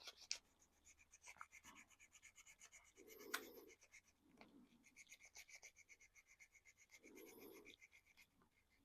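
Faint, rapid scratching strokes, about three or four a second: the paint on a small 3D-printed plastic RC car body being rubbed back by hand, with a few soft handling bumps.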